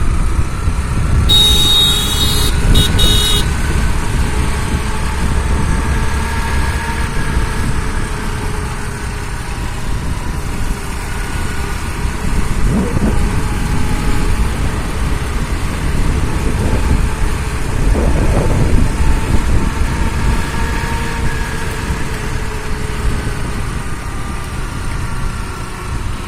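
A vehicle engine running on the road, its pitch slowly rising and falling, over a heavy low rumble. A short high tone sounds twice in quick succession about a second in.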